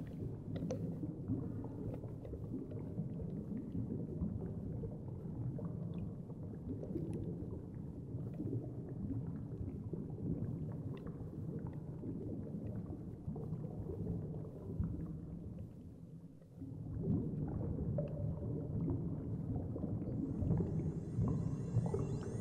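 Muffled underwater rumble and swishing water noise picked up by a submerged action camera, with faint scattered clicks. Music begins to come in near the end.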